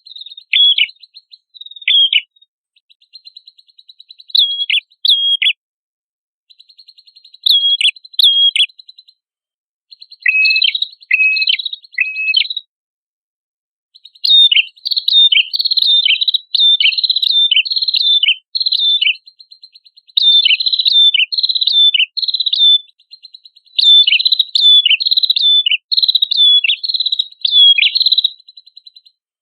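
Prenjak kepala merah singing: sharp, quickly falling chirp notes repeated over a thin buzzing trill, in bursts with brief pauses at first, then nearly continuous from about halfway through.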